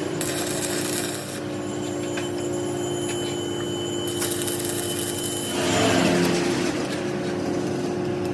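Hand-tool work on metal, with a tool rubbing and scraping over a steady machine hum that grows louder and noisier about five and a half seconds in.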